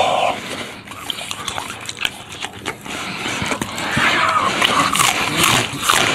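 Loud close-miked eating sounds: wet open-mouthed chewing and lip-smacking on braised meat, with crisp crunches from biting raw Chinese long green onion.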